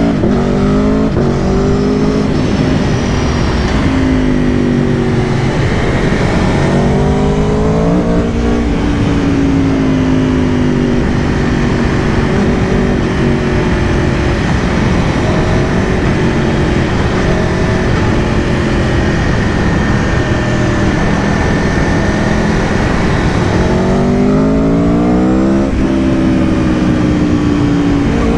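2022 Aprilia Tuono V4 Factory's V4 engine under way, rising in pitch through the revs a few times and dropping back, with steadier stretches of cruising in between. A constant rush of wind noise runs underneath.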